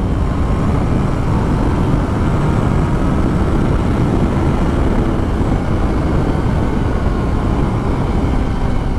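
Motorcycle riding at speed: wind rushing over the helmet microphone with the engine running steadily underneath.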